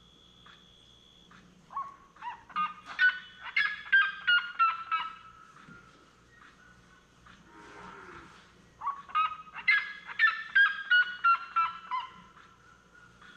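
Bird calls: two bouts of loud, repeated calls, each run of notes falling in pitch, with a short quiet gap between them.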